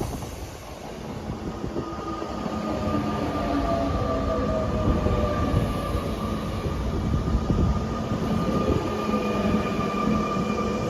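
SNCF TER train arriving and running slowly past along the platform. Its rumble carries a steady whine, with lower tones that slowly fall as it slows.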